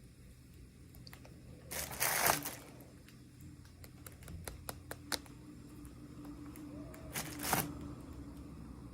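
Packaging wrapper crinkling and tearing as a miniature toy is unboxed, in two short bursts about two seconds in and again near the end, with light clicks and taps of small pieces being handled in between.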